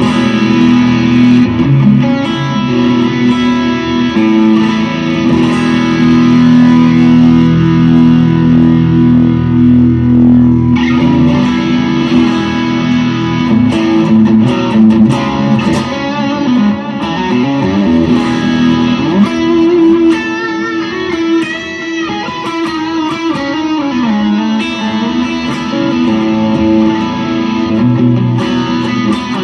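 Electric guitar through an Ibanez TS Mini overdrive into a Universal Audio Ruby amp emulation, with spring reverb and tape delay, in a lightly driven tone. Held chords ring for the first half, then the playing moves to single-note lines with string bends.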